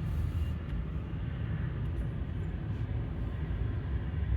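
Steady low rumble with a fainter even hiss above it and no distinct events, like a vehicle or distant jet-engine drone.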